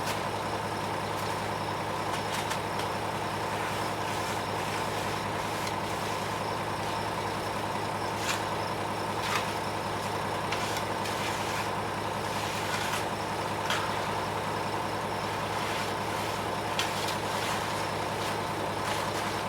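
Ready-mix concrete truck running steadily with a constant low hum, with a few sharp clicks scattered through the second half.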